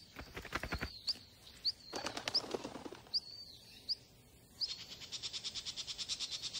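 Small birds calling: a string of short, high chirps that flick upward, with two short bursts of rapid ticking in the first three seconds. From about two-thirds of the way in, a fast, even trill of high notes takes over.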